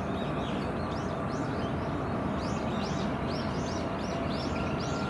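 Small birds chirping, a quick string of short high notes repeated several times a second, over a steady low rumble of background noise.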